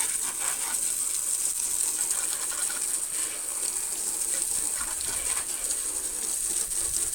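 Hose-end truck-wash sprayer on its stream setting, spraying water mixed with a little soap onto a truck's body: a steady hiss of water.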